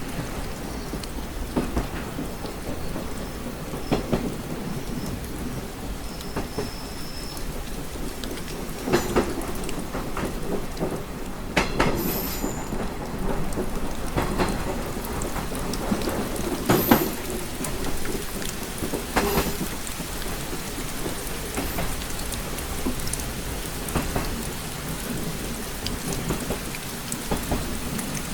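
Steady rain tapping on a window, with sharper single drop taps every few seconds, over a low, constant rumble.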